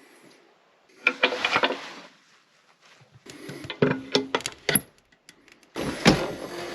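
Clattering and knocking of hard objects being handled, in three short bursts, with the loudest thump about six seconds in.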